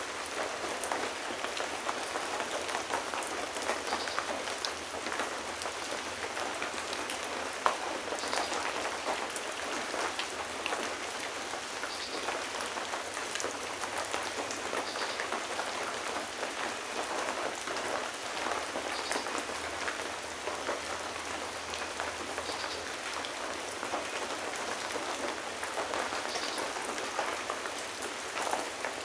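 Steady rain falling, with many separate drops heard as sharp ticks over the even hiss; one louder drop stands out about a quarter of the way in.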